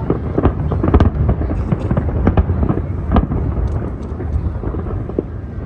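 Fireworks display: shells bursting in quick succession, a dense run of booms and sharp cracks over a constant low rumble, with the strongest bangs about a second in and again past three seconds.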